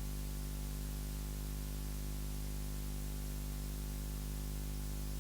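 Steady low electrical hum with an even hiss and nothing else: the background noise of the recording or sound system.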